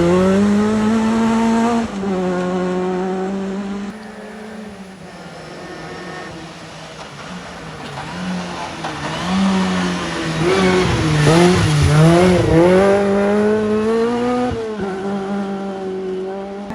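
Rally car engines revving hard and dropping through gear changes as the cars pass, with abrupt cuts from one car to the next about two seconds in, about four seconds in and near the end. The busiest, loudest stretch, with rapid dips and climbs in engine pitch, comes a little after the middle.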